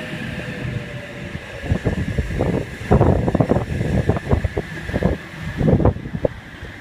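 Sydney Trains Oscar (H-set) electric train standing at a platform. A falling motor whine fades out about a second in while a steady high hum carries on, and irregular knocks and thumps come through the middle.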